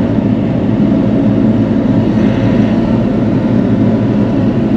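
Bobcat E42 mini excavator's diesel engine running steadily, heard from the operator's seat.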